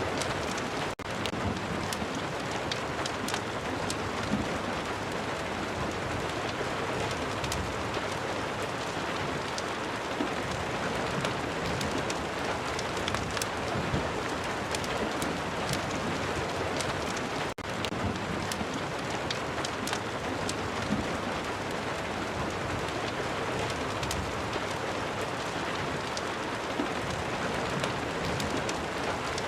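Steady rain falling, an even hiss dotted with many sharp scattered ticks, with two very brief dropouts about a second in and just past the middle.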